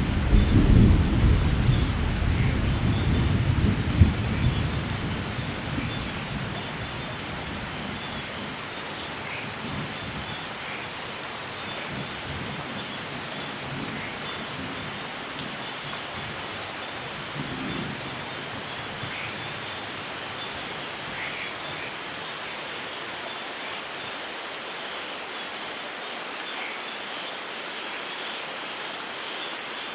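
Steady rain with scattered drips, and a rumble of thunder in the first few seconds that dies away.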